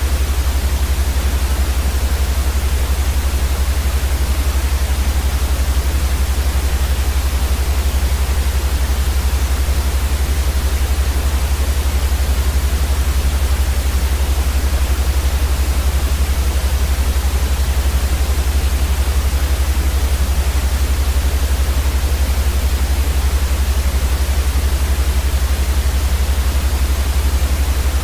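Steady, unchanging white noise for sleep: an even hiss across the whole range with a strong deep rumble underneath.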